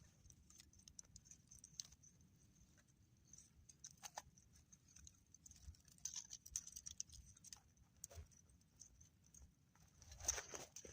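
Near silence with faint scattered clicks and ticks, and a short rustling noise near the end.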